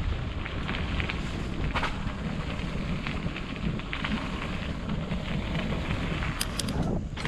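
Wind buffeting the microphone of a camera riding along on a mountain bike, a steady low rumble with a fine crackle of tyre and trail noise. A few sharp clicks come near the end.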